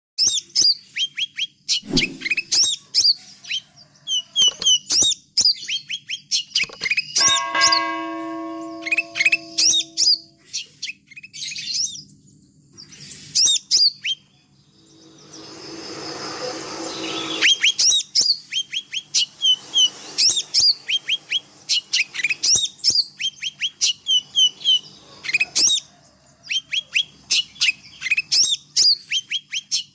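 Small songbirds chirping rapidly and continuously, with sharp, high, repeated chirps several times a second. A steady pitched tone is held for about three seconds from about seven seconds in, and a brief rushing noise swells and stops from about fifteen to seventeen seconds.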